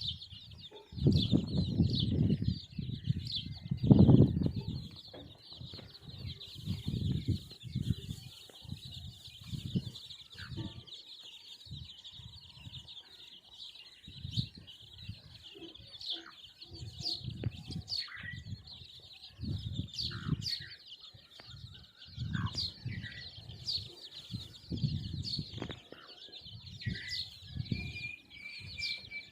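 Hens flapping their wings and scuffling, in low thumps that come and go, with occasional short clucks and calls, over a steady high-pitched drone.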